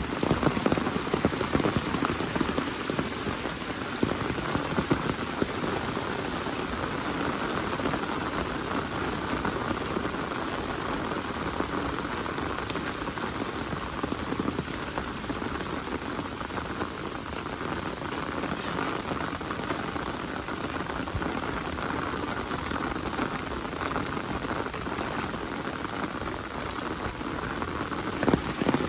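Heavy rain falling, a dense, steady patter of drops hitting surfaces, a little louder and sharper in the first few seconds and near the end.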